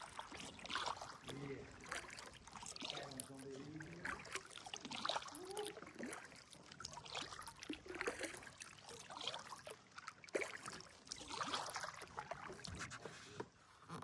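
Kayak paddle strokes, the blades dipping and splashing with water trickling off them, about one stroke a second. Faint voices can be heard in the first few seconds.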